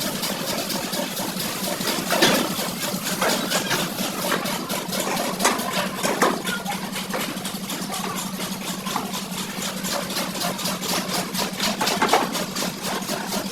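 A motor or engine running steadily with a fast, even pulse, with a few sharp metallic-sounding knocks over it.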